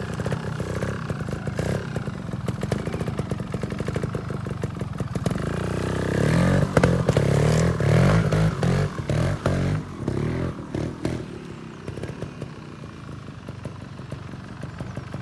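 GasGas trials motorbike engine running, its throttle blipped in short bursts, with a louder stretch of revving about six to ten seconds in, then falling back to lower, quieter running.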